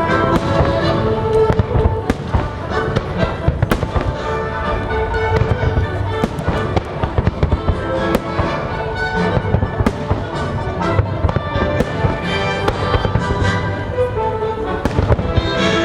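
Fireworks bursting in quick, irregular bangs and crackles over patriotic show music.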